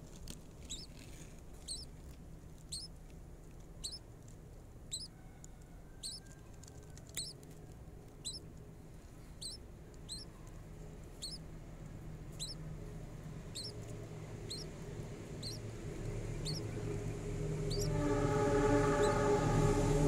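A nestling bird cheeping: short, high, falling chirps about once a second. Near the end a loud, steady horn-like chord of several tones swells in and drowns them out.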